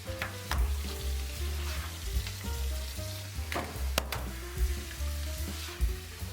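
Food sizzling as it fries in a pan, with a few sharp clicks of a utensil, under background music with a steady bass line.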